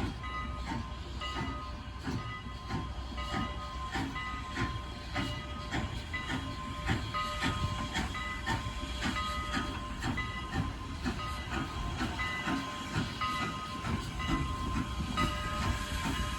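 Train running, with a steady hiss and an even beat of clicks, about two a second. Thin high squealing tones come and go over it.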